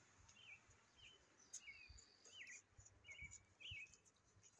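Faint bird chirps outdoors: short notes that bend up and down in pitch, repeating every half second or so, over a quiet background.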